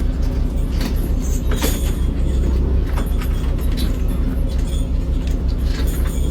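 A fishing boat's engine running with a steady low rumble, with a few sharp knocks of gear on the boat while a float is being hauled aboard.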